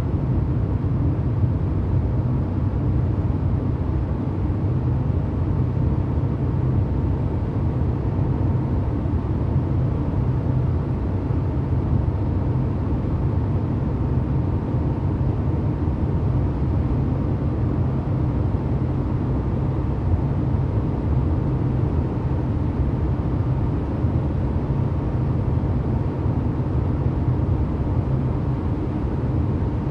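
A 1990 Porsche 911's air-cooled flat-six engine running steadily, with no rise or fall in revs.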